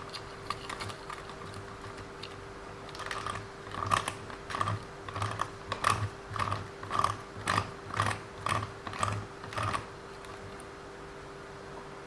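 Drivetrain of a WLToys 144001 RC car with an upgraded metal centre driveshaft, run in short bursts about two a second for several seconds over a faint steady whine. It is being tested for a grinding that the owner wants to get rid of.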